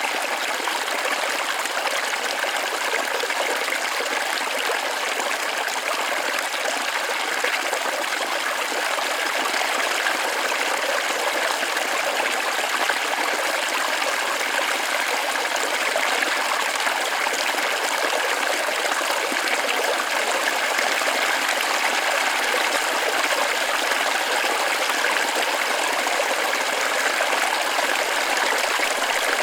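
Small forest waterfall splashing and trickling over rocks: a steady, even rush of water.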